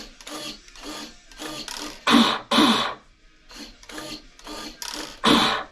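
Pro Boat Sonicwake 36 RC boat being run through a control check after switch-on: about a dozen short mechanical buzzes in quick succession, loudest about two seconds in and again near the end.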